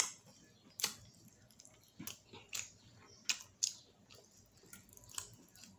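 A person biting and chewing a sauced fried chicken wing: quiet, wet mouth smacks and clicks at irregular intervals.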